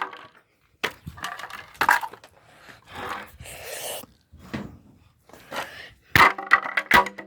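Knocks, cracks and clatter of broken plastic washing-machine parts being handled and struck, in separate bursts with a scraping stretch in the middle.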